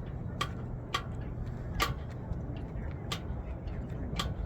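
About five sharp clicks at irregular intervals, over a steady low rumble.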